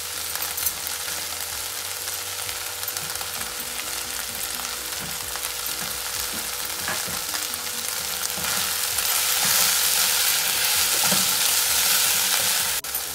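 Chopped vegetables with sauce sizzling steadily in a hot nonstick wok. A wooden spatula stirs through the mix, and the sizzle grows louder about two-thirds of the way in as the stirring gets going.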